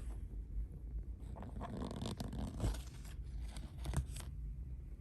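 Rustling, tearing and scraping of food packaging being handled and opened, with a few sharp clicks, mostly between about one and four seconds in.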